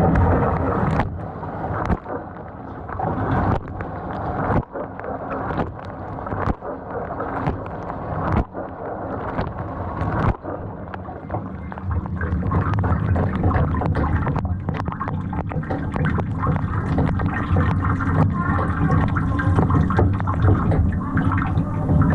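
GE GDT655SSJ0SS dishwasher running: water splashing and gurgling inside the tub, with scattered clicks and knocks. A steady low motor hum grows stronger about halfway through.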